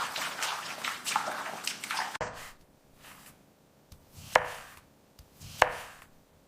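A quick run of chopping-like strokes that stops about two seconds in, then two sharp knocks about a second apart, each with a short ringing tone.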